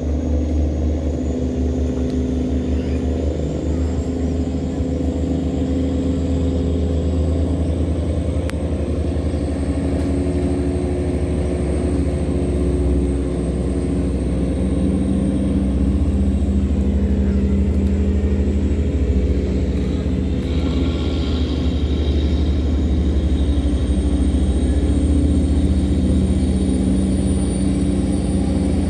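A river tugboat's engine running steadily under load as it tows a cargo barge upstream against the current: a constant, deep, even drone with a thin high whine above it.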